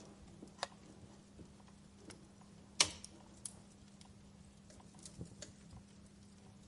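Wood fire crackling in a fireplace: scattered small pops and ticks over a low hiss, with one sharp, loud pop about three seconds in.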